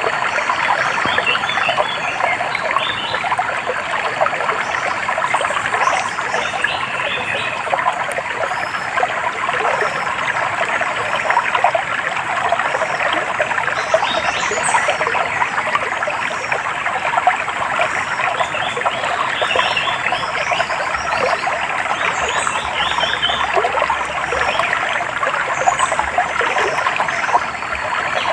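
Stream water trickling and babbling steadily, with small birds giving short, high chirps every few seconds.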